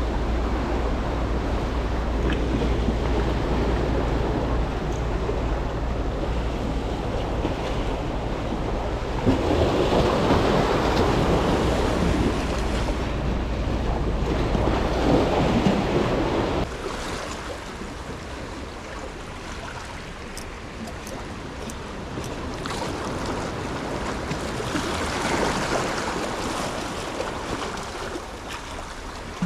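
Rough sea: waves surging and washing in, with wind buffeting the microphone. Two bigger surges come around ten and fifteen seconds in; the wind rumble stops a little past halfway, leaving a quieter wash with another swell near the end.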